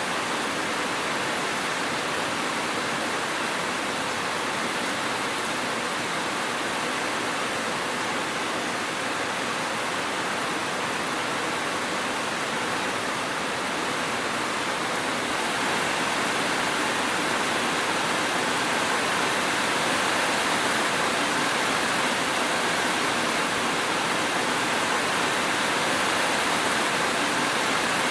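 Steady heavy rain, a dense even hiss with no distinct drops or thunder, growing slightly louder about halfway through.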